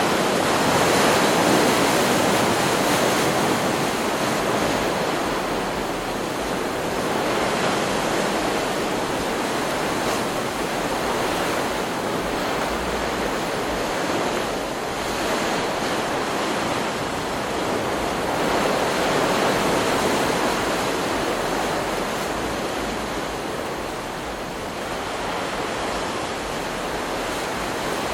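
Stock recording of ocean surf: a continuous wash of breaking waves that swells and eases every few seconds.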